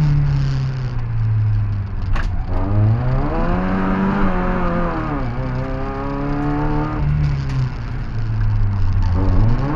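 Opel Manta B's four-cylinder engine heard from inside the cabin, driven hard uphill: the revs hold, drop sharply about two seconds in, rise and fall, step up again near seven seconds and climb near the end.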